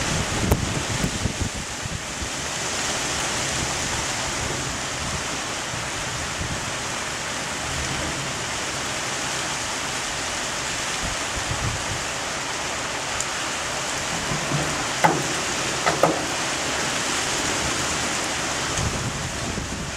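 Heavy thunderstorm rain with wind, a steady loud rush, with two sharp knocks about three-quarters of the way through.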